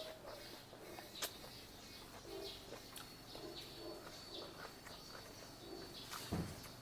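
Faint birds chirping in the background: repeated short, high chirps with some lower short calls, broken by a few sharp clicks about a second in, about three seconds in and near the end.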